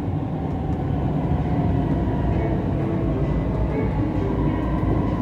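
Siemens Inspiro MRT train running, heard from inside the car: a steady low rumble of wheels and running gear with a faint steady whine above it.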